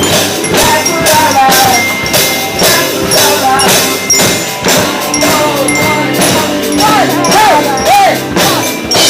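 Student rock band playing their song live in an instrumental passage: a drum kit keeps a steady beat under sustained chords and bass. Near the end a lead line bends its notes up and down in pitch.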